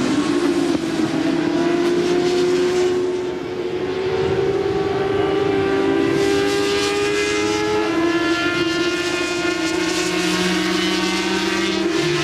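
Several 400 cc supersport racing motorcycle engines running hard at high revs, their pitch climbing slowly as they accelerate, with a brief dip in level about three and a half seconds in.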